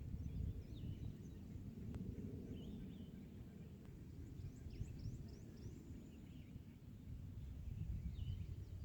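Outdoor ambience: a steady low rumble with scattered short, high bird chirps, including a quick run of them about halfway through.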